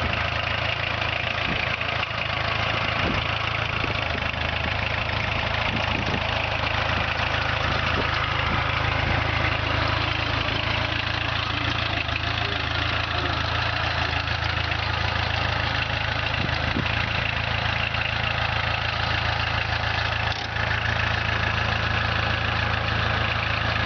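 VW 1.6 litre four-cylinder diesel engine of a minitractor running steadily, with a brief dip in level about twenty seconds in.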